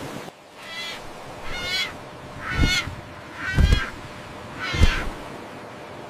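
Seagull cries, five calls about a second apart, with low thuds beneath some of them.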